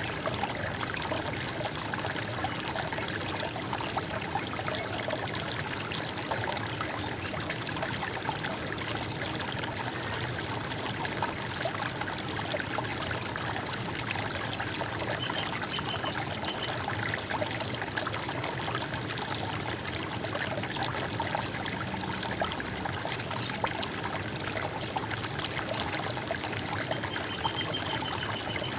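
Running water gurgling and trickling steadily, like a stream. A short, faint, high bird note sounds twice, about halfway through and near the end.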